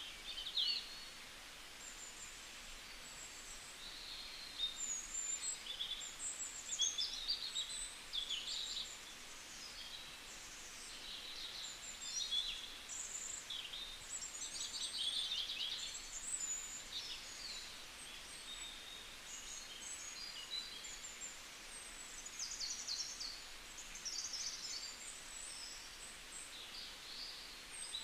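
Small birds chirping and twittering, short high notes and quick trills coming in clusters all through, over a faint steady hiss.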